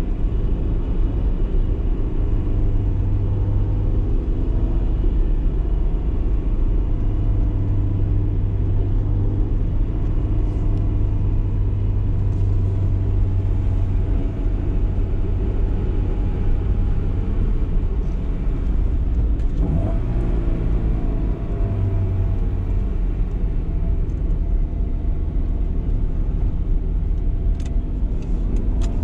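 BMW E30 318is's 1.8-litre four-cylinder engine running steadily under light load while driving through town, with a low rumble; about two-thirds of the way through the engine note drops briefly and changes, as with a gear change or a lift off the throttle, then settles again.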